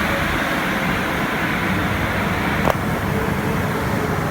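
Car wash blower dryers blowing with a steady rushing hiss. About two-thirds of the way through there is a sharp click, and the higher hiss eases after it.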